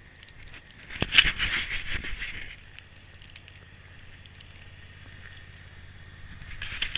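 Footsteps crunching in light snow for about a second and a half, then a faint steady low hum.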